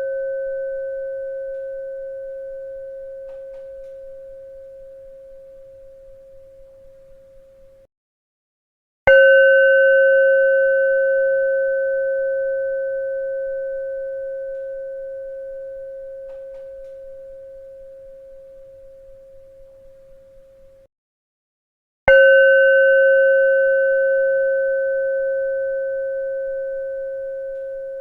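A bell struck twice, about 13 seconds apart, each stroke ringing on one steady mid pitch with fainter higher overtones and fading slowly with a slight waver. Each ring cuts off abruptly a second or so before the next strike, as in a looped recording.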